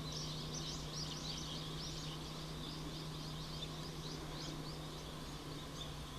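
Small birds twittering: rapid high-pitched chirps, several a second, thinning out toward the end, over a steady low hum.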